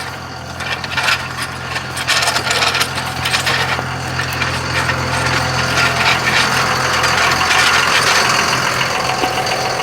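Vehicle engine idling with a steady low hum, while a rushing noise swells from about two seconds in and is loudest near the end.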